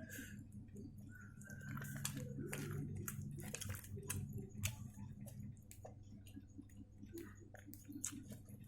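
Close-miked chewing of fried chicken with tomato sambal: irregular wet mouth clicks and smacks, over a low steady hum.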